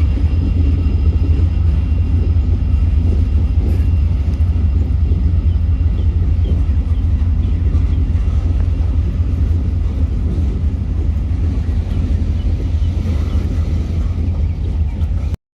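Steady low rumble of a passing train, cutting off suddenly near the end.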